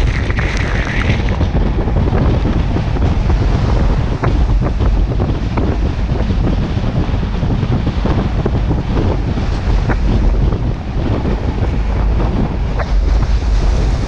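Wind buffeting the microphone: a loud, steady rumbling rush with faint scattered crackles.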